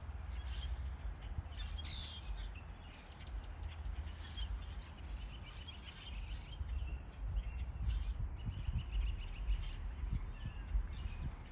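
Several birds chirping and calling, with two rapid trills of repeated notes about five and eight seconds in, over a steady low rumble.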